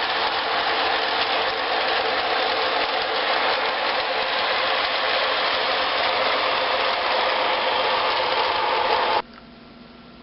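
Model train running along the track: a steady whirring and clattering of motor and wheels that cuts off abruptly about nine seconds in, leaving a faint hum.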